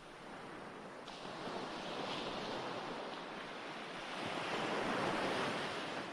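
Recorded ocean waves washing onto a shore as a steady background track, swelling twice and easing near the end.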